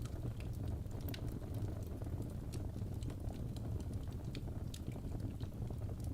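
Crackling fire: irregular small snaps and pops, a few each second, over a steady low rumble.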